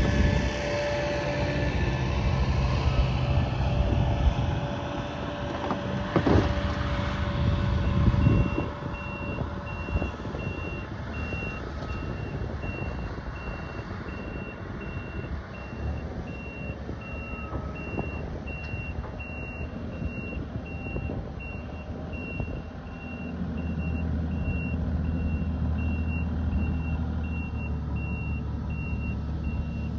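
A vehicle engine running, louder in the first few seconds with a couple of knocks; from about eight seconds in, a reversing alarm beeps steadily, a bit more than once a second, over the engine.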